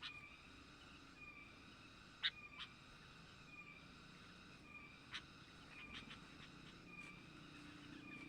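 Faint bird calls: a short pitched note repeated about once a second, with a few brief sharp chirps.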